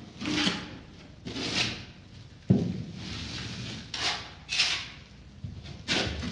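Spatula scraping tile adhesive onto drywall in short, separate strokes, with one sharp knock about two and a half seconds in.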